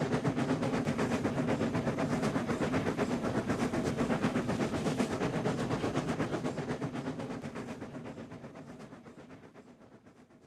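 Steam locomotive chuffing in a fast, even rhythm as it moves off, fading out over the last few seconds.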